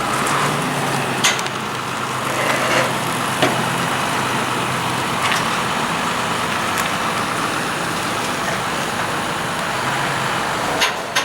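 Diesel farm machinery running steadily at a maize silage clamp: tractor engines working under load, with a few sharp metallic clanks now and then.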